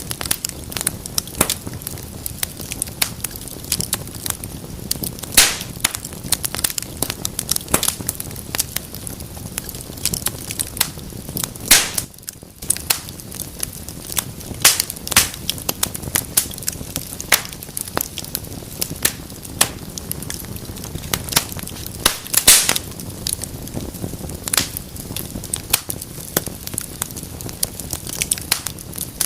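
Fire in a fireplace crackling steadily over a low, even hiss, with frequent irregular snaps and pops. A few louder pops come about 5, 12 and 22 seconds in.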